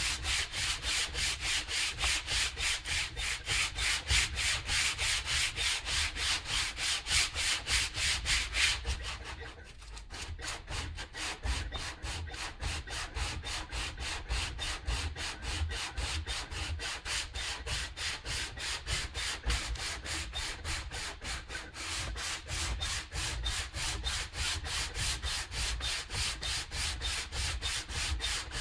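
Hand sanding of an old paint finish: steady back-and-forth strokes, about three a second, a little softer after a brief dip about ten seconds in.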